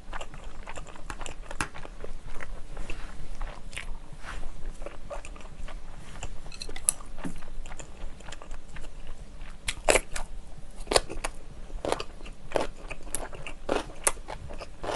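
Close-miked chewing and crunching of kimchi fried rice, with louder, sharp crunches coming thick in the second half.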